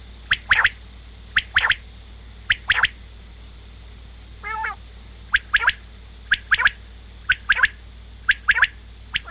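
Common quail's three-note 'wet-my-lips' song, sharp notes repeated in quick phrases about once a second, seven times. A little over four seconds in, the phrases give way briefly to a single short, lower nasal call.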